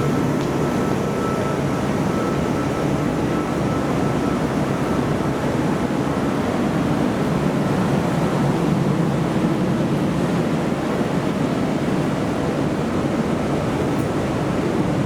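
Steady low rumble of a train at a station platform, with a faint high steady tone in the first few seconds.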